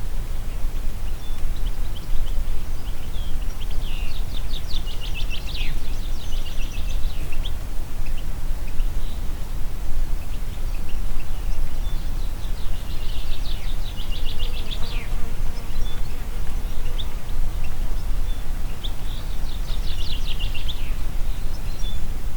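Steady wind through a forest with a deep low rumble, and a songbird singing a rapid, buzzy trill three times, several seconds apart.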